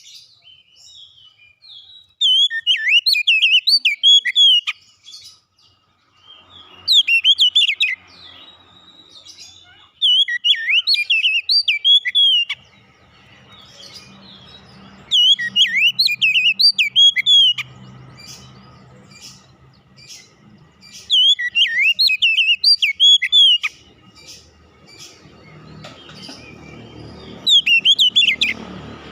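Oriental magpie-robin (kacer) singing: six bursts of rapid, varied whistled phrases, each two to three seconds long with pauses of a few seconds between them.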